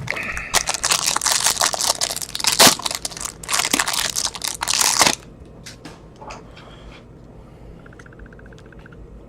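Trading card packaging being torn open and crinkled for about five seconds, then a few light clicks from handling.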